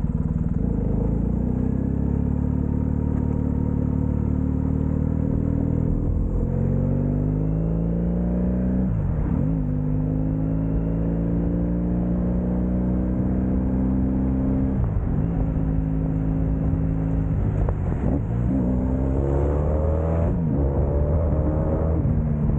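Motorcycle engine running at road speed, its note climbing from about six seconds in, with several short dips in pitch where it drops and picks up again.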